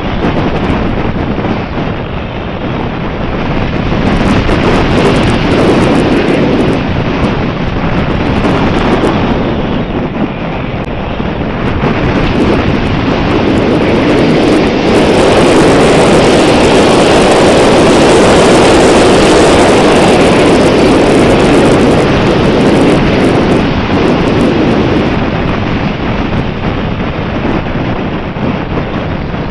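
Wind buffeting the microphone: a loud, rushing noise that swells to its strongest around the middle and eases toward the end.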